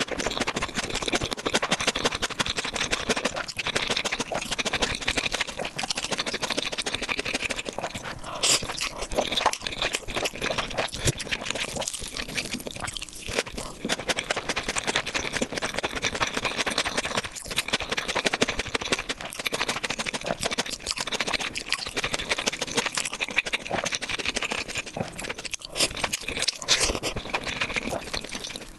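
Close-miked eating: continuous chewing and mouth sounds, a dense crackle of small wet clicks and crunches.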